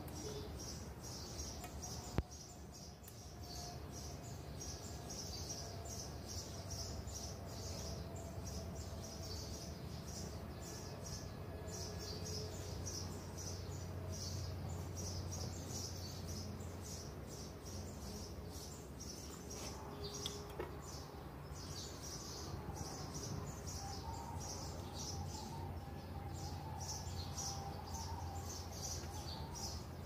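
Small birds chirping continuously in quick, repeated high-pitched calls over a steady low hum, with one sharp click about two seconds in.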